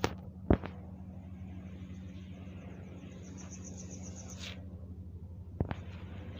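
Low, steady, fluttering rumble of a UH-60M Black Hawk helicopter, under a fast pulsing high insect trill that stops about four and a half seconds in. A few sharp knocks come near the start and again about five and a half seconds in.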